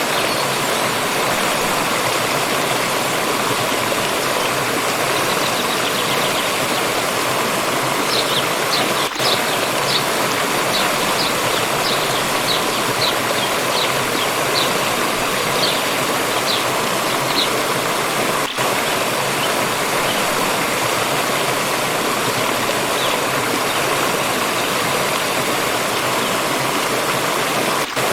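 Stream rushing steadily. From about eight seconds in, a bird gives a run of short high chirps, about two a second at first and then slowing, stopping after about nine seconds.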